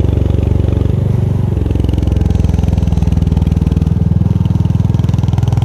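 Royal Enfield Hunter 350's single-cylinder engine and exhaust running under way, its note changing in steps a few times.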